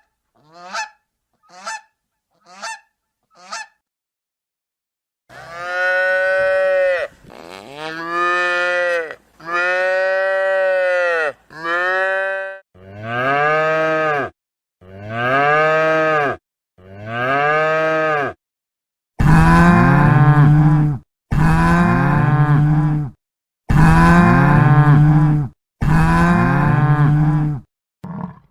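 A few short honks from geese, then after a brief pause a series of about eleven long cattle moos, each one to two seconds and rising then falling in pitch. The last four, from about two-thirds of the way in, are louder and deeper.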